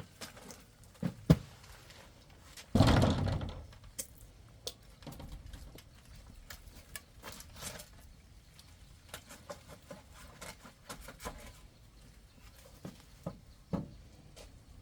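A heavy load set down with a loud thud and a short rattling clatter about three seconds in, after a single sharp knock; then scattered small knocks and rustling of handling.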